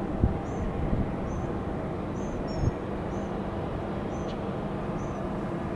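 Steady low rumble of jet aircraft at the airport, with a small bird chirping over it, one short high chirp about every second.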